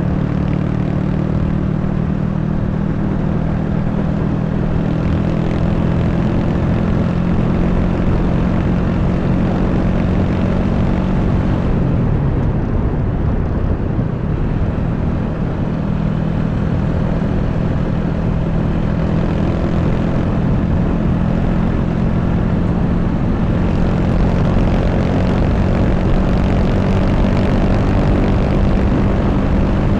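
Honda Wave 125's small single-cylinder four-stroke engine running steadily while riding, with heavy wind noise on the microphone. The engine note drops about twelve seconds in, as the throttle eases, then holds steady again.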